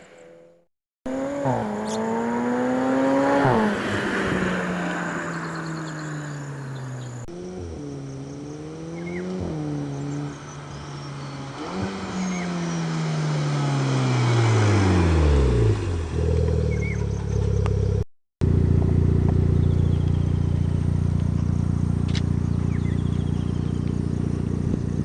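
VW Golf Mk6 engine through an Akrapovic exhaust, in several short clips joined by abrupt cuts: revving up and down repeatedly, then a long falling note about two-thirds of the way through, and a steady drone near the end.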